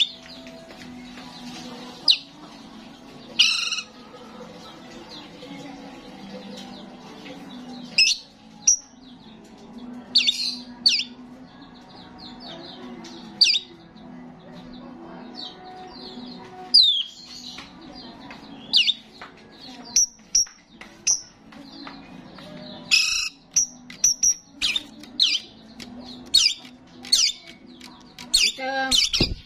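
Starling calling: short, sharp squawks and whistled chirps at irregular intervals, coming faster in the last few seconds, over a steady low hum.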